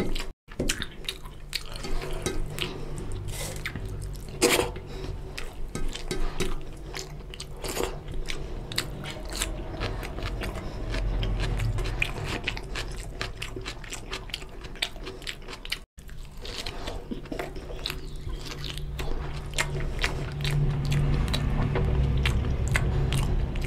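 Close-miked wet chewing and lip-smacking of a person eating rice and oily curry by hand, with many irregular sharp mouth clicks and fingers squelching through the food on a steel plate.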